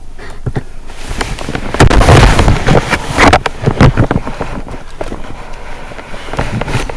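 Loud thunder, cracking and rumbling, loudest for a couple of seconds about two seconds in, then easing off.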